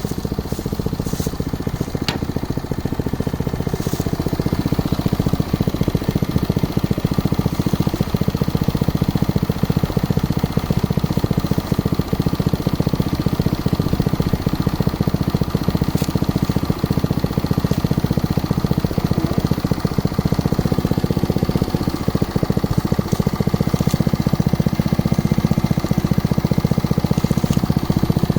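Engine of a drilling rig for geological exploration running steadily, slightly louder from about five seconds in.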